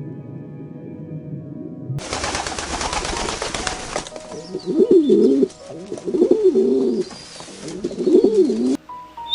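Low droning music, then a cut to a clip in which a pigeon coos three times, each a low, wavering call of about a second.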